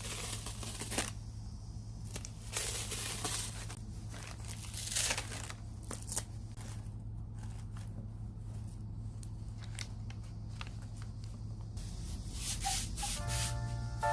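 Packaging being torn and crinkled by hand in several short bursts, over a low steady hum. Music comes in near the end.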